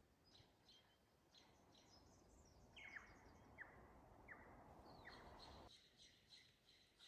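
Faint birdsong: small birds chirping high, with four short downward-sweeping calls in the middle. A low background hiss stops suddenly about two-thirds of the way through, and quick, evenly repeated chirping carries on after it.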